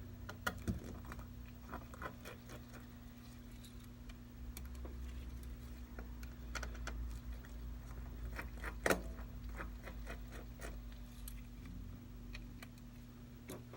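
Scattered light clicks and taps of small hand tools against the iPad as its glued screen is pried free around the edges, with one sharper click about nine seconds in, over a steady low electrical hum.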